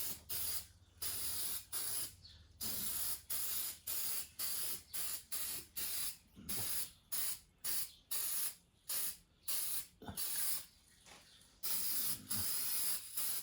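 Aerosol spray-paint can hissing in short repeated bursts, about one to two a second, with a few longer passes and a pause of a second or so about ten seconds in.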